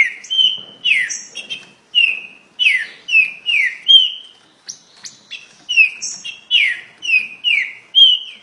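Green-winged saltator (trinca-ferro) singing very fast: an unbroken string of loud whistled notes, many sliding downward in pitch, about two a second.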